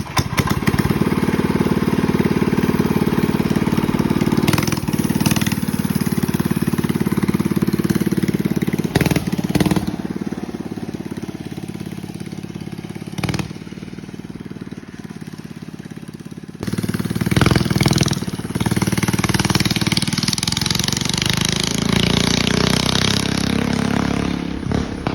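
Coleman mini bike's small engine running hard, dropping to a lower, quieter speed in the middle, then revving up sharply about two-thirds through and holding there before easing off near the end.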